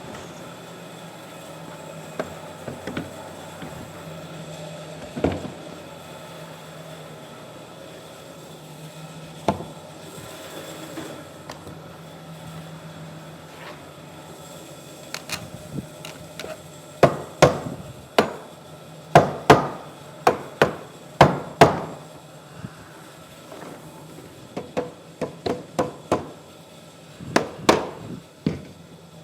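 Hammering on wood: a few scattered knocks, then two quick runs of sharp strikes in the second half, several a second, each ringing briefly.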